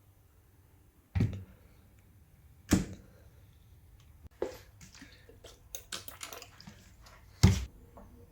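A few separate short knocks and clicks, as of hard objects being handled and set down: one about a second in, one near three seconds, a quick run of lighter clicks in the middle, and the loudest near the end.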